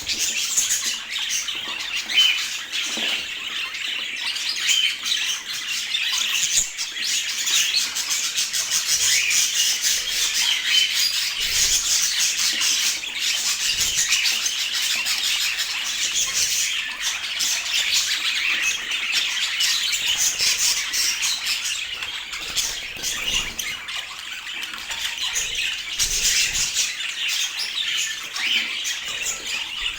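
A group of budgerigars chattering without a break, a dense mix of chirps, warbles and squawks.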